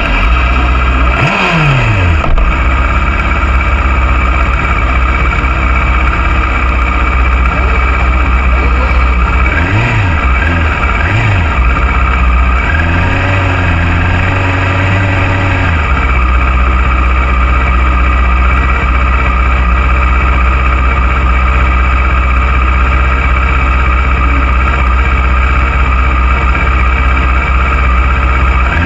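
Racing motorcycle engine under a steady low rumble: a falling drop in revs about a second in, two quick throttle blips around ten and eleven seconds in, revs held higher for a few seconds, then steady running.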